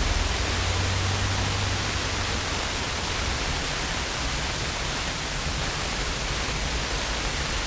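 Steady, even hiss of a light aircraft's headset and radio audio feed between transmissions, with a low hum underneath that fades after the first two seconds.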